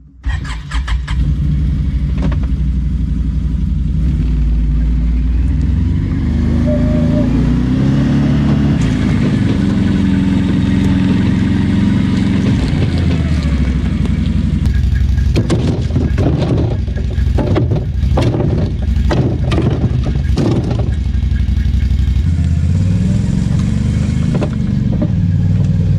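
Quad (ATV) engine running while being ridden, its pitch rising and falling with the throttle. From about the middle on, a series of sharp knocks and rattles comes through over the engine.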